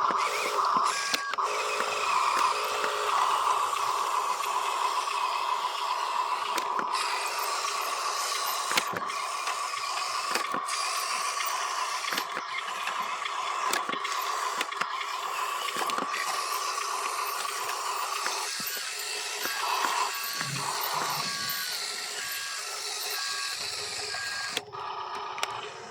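Radio-controlled toy construction vehicle running: a steady electric motor whine with scattered clicks, and short repeated electronic beeps about a second in and again over the last several seconds.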